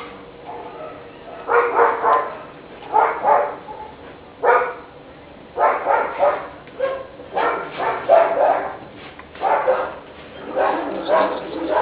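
A small animal calling over and over, about eight loud pitched cries roughly a second and a half apart.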